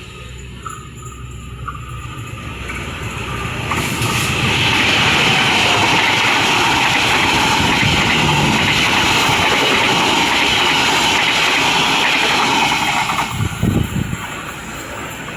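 A train passing close by at speed. The wheel and rail noise builds over a couple of seconds, stays loud and steady for about nine seconds, then fades away near the end.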